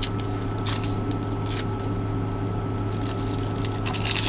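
Steady hum in a truck cab, with a few brief soft squishing and rustling handling noises as food is put together on a bagel.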